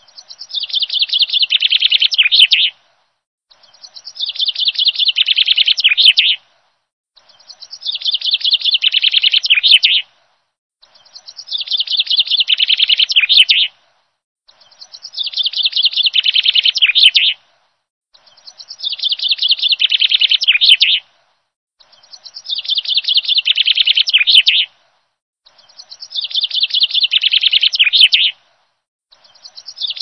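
Songbird singing the same phrase, a fast trill that swells in loudness over about two and a half seconds, repeated eight times at even spacing of about four seconds with dead silence between each: a looped birdsong recording.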